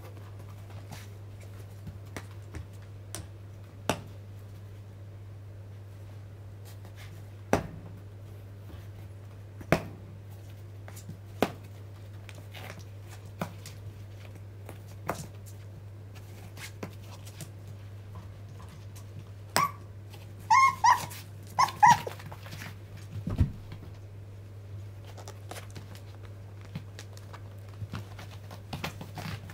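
Month-old Shiba Inu puppies playing: scattered knocks and scrapes throughout, and a quick run of high-pitched puppy yips about two-thirds of the way through. A steady low hum runs underneath.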